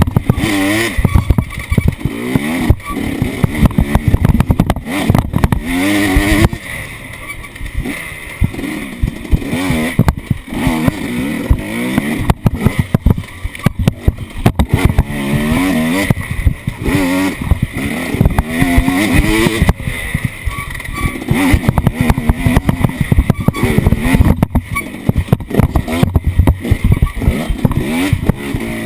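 Off-road vehicle's engine revving up and down again and again while driving over rough ground, with frequent knocks and rattles from the bumps.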